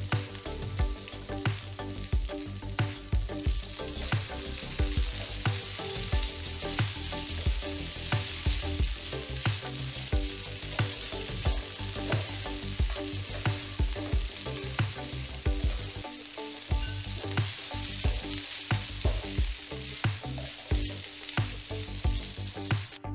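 Soaked sabudana (tapioca pearls) with potatoes and peanuts sizzling in hot oil in a non-stick pan as a wooden spatula stirs them. Background music with a steady beat of about two a second plays underneath.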